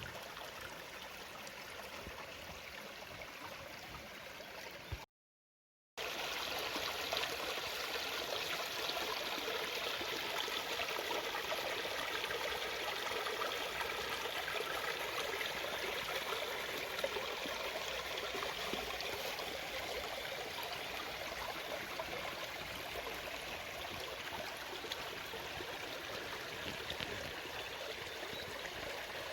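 A small stream babbling steadily. About five seconds in, the sound drops out completely for about a second, then the water comes back somewhat louder.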